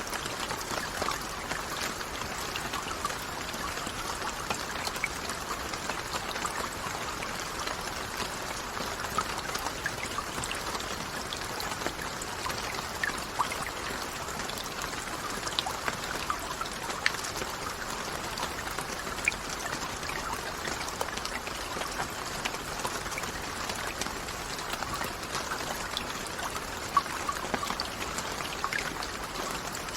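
Steady rainfall with water trickling, and scattered sharp drops ticking through it.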